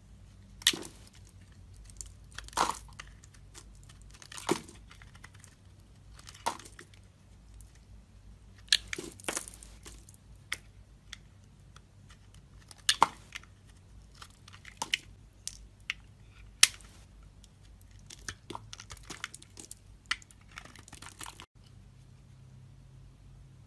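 A knife carving into a bar of soap, with crisp crunches and cracks as pieces break away every second or two and a few quicker clusters of crackling. The cutting stops shortly before the end.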